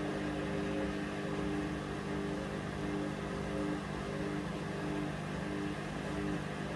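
Hoover Vision Dynamic washing machine running mid-cycle: a steady motor hum, with one tone that swells and fades about one and a half times a second as the drum turns.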